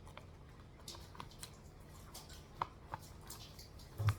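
Light scattered clicks and taps of small objects being handled, with a louder knock about four seconds in.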